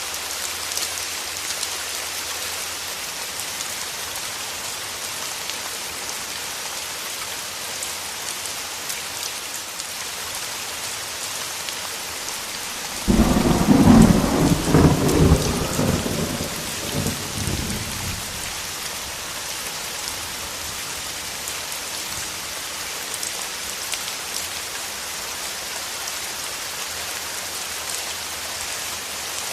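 Steady rain, with a sudden clap of thunder about halfway through that rumbles for around five seconds and fades.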